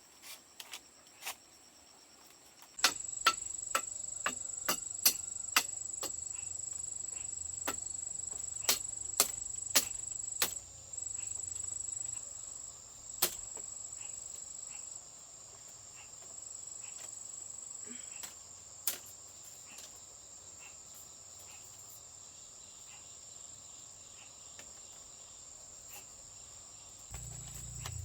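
Insects trilling steadily at one high pitch, starting about three seconds in and continuing, with a series of sharp knocks, irregular and frequent at first, then only a couple more.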